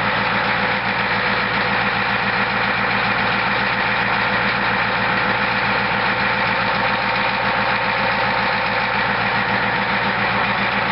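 1989 Ford F-250's 7.3L IDI V8 diesel idling steadily and evenly, shortly after a near-cold start on a fresh set of glow plugs.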